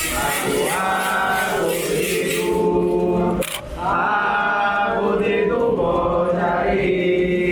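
A group of voices chanting a Candomblé cantiga, a sacred song to the orixá Xangô, in call-and-response style. The singing breaks off briefly about halfway, where there is a sharp click.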